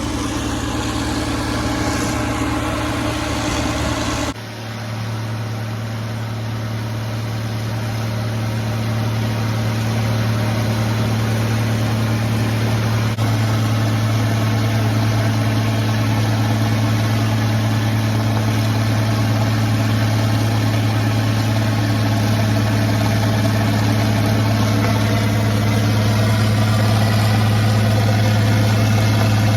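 Massey Ferguson 2725 tractor engine running steadily on a PTO dynamometer, with a constant low drone. The sound changes abruptly a little over four seconds in, then slowly grows louder.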